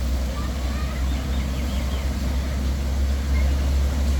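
Spring water rushing and splashing steadily, with a deep, even low rumble under the hiss.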